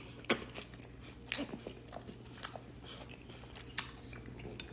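A person chewing a mouthful of food close to the microphone, with a few sharp crunchy clicks spaced about a second apart.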